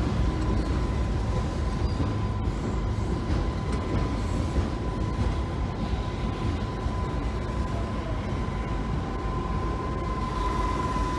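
Aurizon freight train's container wagons rolling past, a steady low rumble of wheels on rail. A thin, steady high tone runs along with it.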